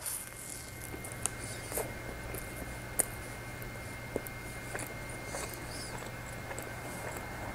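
Close-up chewing of a soft Hostess Sno Ball, a marshmallow-and-coconut-covered chocolate cake: quiet mouth sounds with scattered small clicks, over a low steady hum.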